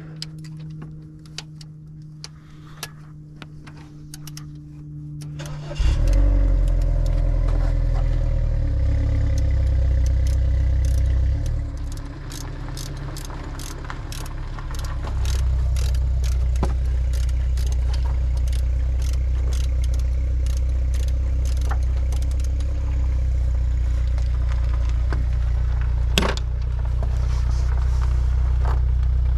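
A vehicle engine starts about six seconds in and runs steadily, dropping lower for a few seconds and then picking back up; a listener takes it for a diesel. Before it starts there is a steady low hum with light clicks.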